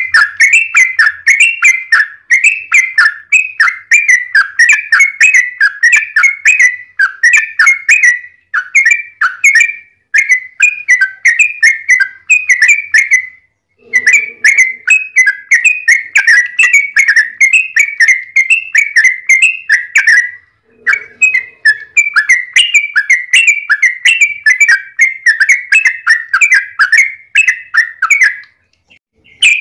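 Trucuk (yellow-vented bulbul) singing a long, rapid run of repeated chirpy notes, about three a second. The song comes in three long bouts, broken by brief pauses about 14 and 21 seconds in.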